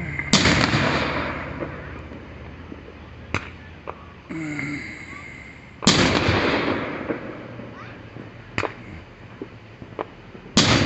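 Aerial fireworks shells bursting: three big booms about five seconds apart, each trailing off in a long rolling echo, with sharper single cracks between them.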